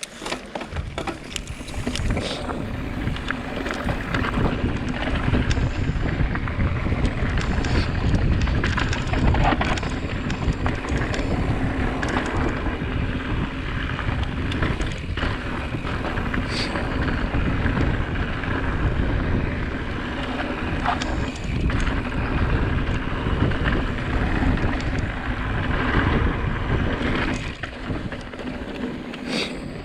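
Wind rushing over an action camera's microphone as a mountain bike rolls fast down a dirt trail. The noise builds over the first couple of seconds, with scattered knocks and clatter from the bike over the terrain.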